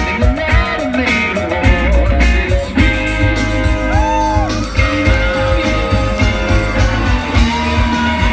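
Rock band playing live: electric guitars over bass and drums, loud and steady.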